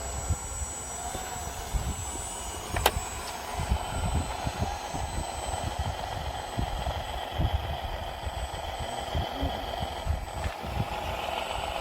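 Radio-controlled model truck's small electric drive whining steadily, with irregular low rumble from wind on the microphone and a sharp click about three seconds in.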